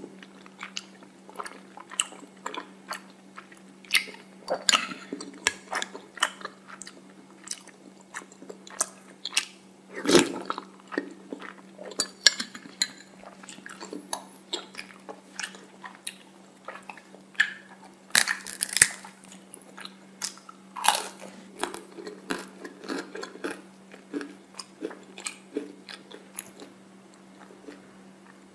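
Close-miked eating sounds: chewing tapioca pearls in milk tea, full of sharp irregular clicks and wet mouth noises. A steady faint low hum lies underneath.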